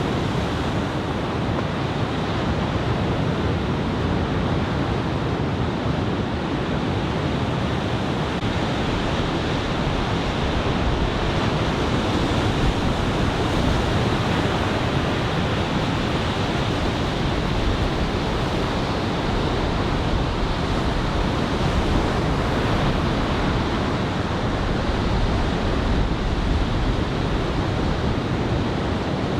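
Head-high ocean surf from a typhoon swell, breaking in a steady wash of noise, with wind on the microphone.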